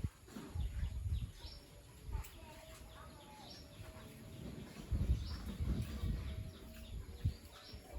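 Small birds chirping in short falling chirps, repeated every second or so, over bursts of low rumbling thumps.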